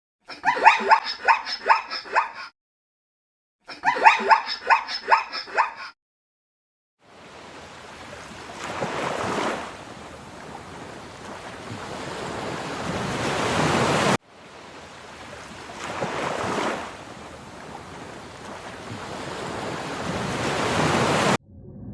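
Two short bouts of rapid, repeated animal calls, then a rushing noise that swells and cuts off abruptly, twice over.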